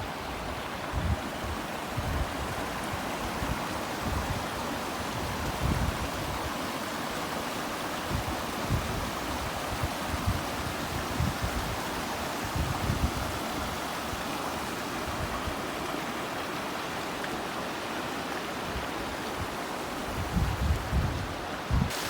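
Strong wind blowing steadily, with gusts buffeting the microphone in irregular low rumbles.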